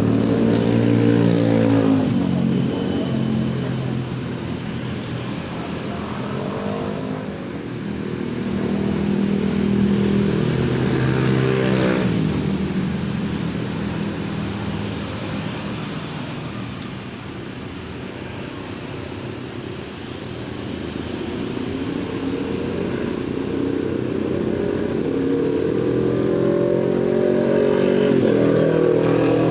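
Motor vehicle engine running, its pitch rising and falling in several slow sweeps over a steady hum.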